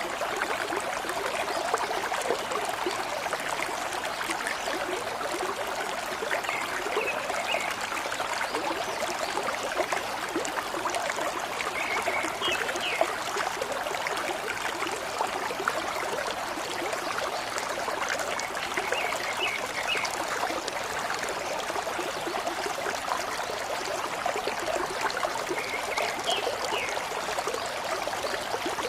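Gurgling, trickling stream running steadily, with short bird chirps now and then, about every six or seven seconds.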